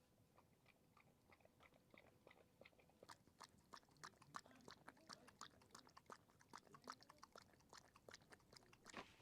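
An animal chewing crunchy food: a quick run of faint crunches, several a second, growing louder about three seconds in.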